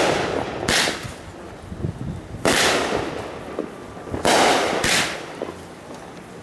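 Fireworks going off: five loud bangs at uneven intervals, each trailing off in a fading crackle or echo.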